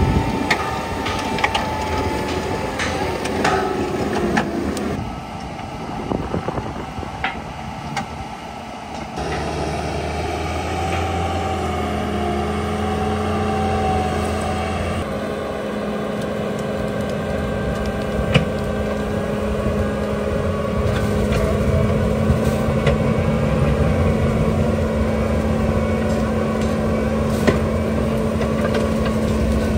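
A Bobcat T86 compact track loader runs under load while its Coneteks forestry mulcher rotor grinds stumps and roots into the ground. Sharp knocks of wood and debris striking the rotor come throughout. The sound shifts abruptly a few times.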